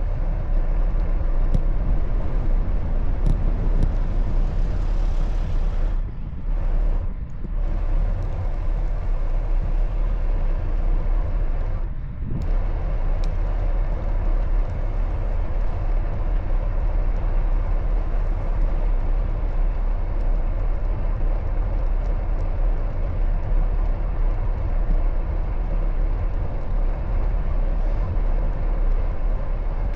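Steady rumbling wind and road noise from riding a bicycle in traffic, heaviest in the low end. It drops briefly about six seconds in and again about twelve seconds in.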